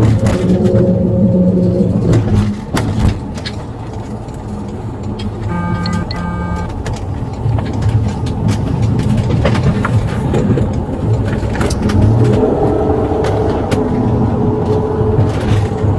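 Motor vehicle engine running steadily amid road traffic, with a brief two-part electronic beep about six seconds in.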